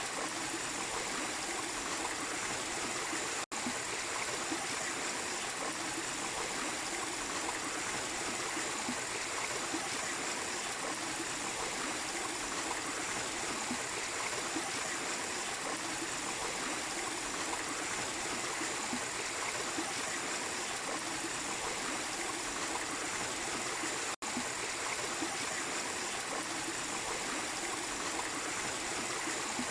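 Small waterfall splashing and running steadily, with a faint high steady whine above the water. The sound cuts out for an instant twice, about 3.5 and 24 seconds in.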